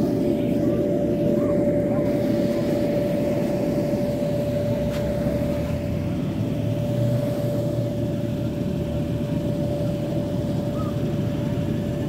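A steady mechanical drone with one constant high hum over a low rumble, unchanging in pitch.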